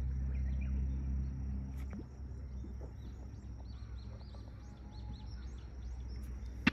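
Lakeside ambience: a bird singing a quick series of short rising-and-falling chirps over a low steady hum that fades down about two seconds in.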